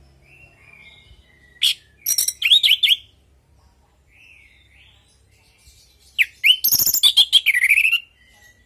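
Orange-headed thrush singing: soft whistled phrases, broken twice by loud bursts of rapid, varied notes, one about two seconds in and a longer one from about six to eight seconds.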